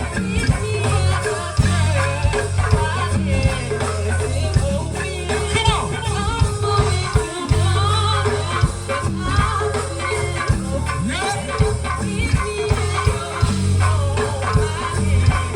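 Live gospel band playing, with a heavy steady bass line, a driving drum beat and singing over it.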